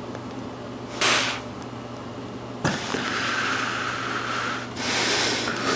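A man's forceful, hissing breaths while flexing for a physique check: a short sharp breath about a second in, then a long strained exhale and another breath near the end, over a steady low hum.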